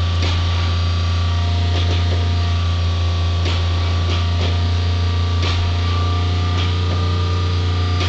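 A car engine idles steadily with a low, even hum, the running donor vehicle in a cold-weather jump start. Several faint clicks come and go over it.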